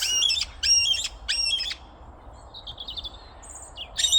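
Parrots calling with repeated harsh, short calls: three loud calls in the first two seconds, fainter calls in the middle, and loud calls again near the end.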